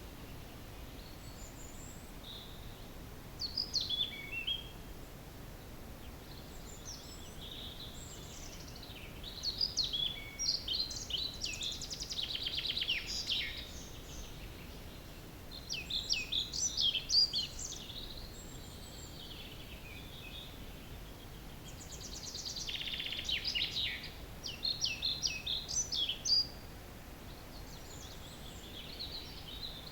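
Wild songbirds singing at dawn, several phrases of quick, high, sliding notes coming and going, with a short falling phrase near the start and busier overlapping song in the middle and again later, over a faint steady low background noise.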